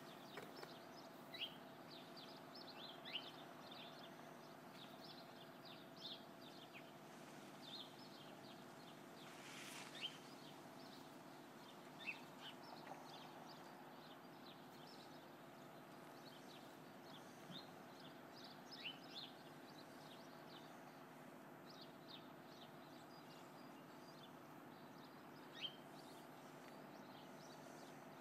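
Near silence broken by small birds chirping in many short, quick falling notes, over a faint steady low hum.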